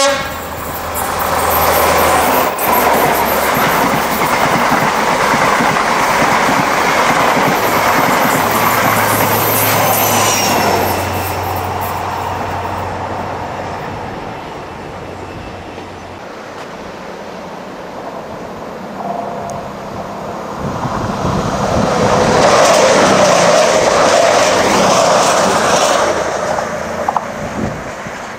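InterCity 125 High Speed Train passing at speed, with the power cars' diesel engine hum and the wheels running on the rails. A high whine drops in pitch about ten seconds in, and the train noise then fades. A second swell of rushing noise comes a few seconds before the end.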